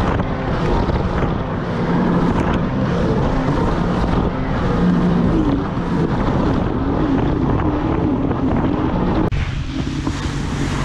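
Jet ski engine running under way, its note wavering up and down with the throttle, with wind buffeting the microphone and rushing water. About nine seconds in the wind and water noise drops and the engine settles to a lower, steadier note.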